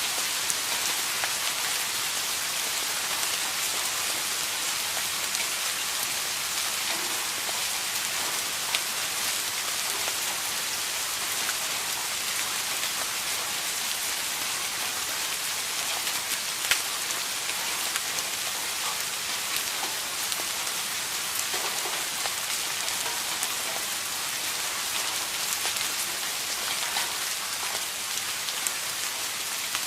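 Steady rain falling on a surface, an even hiss with the sharp ticks of single drops hitting scattered through it.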